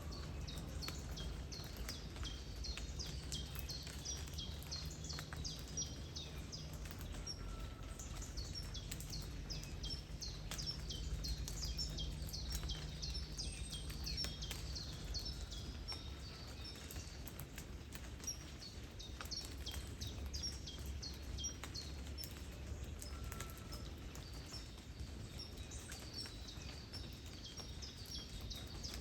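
Small birds chirping over and over: short, high notes that drop in pitch, in quick runs. Beneath them is a low, steady rumble of water and wind, with light raindrop ticks.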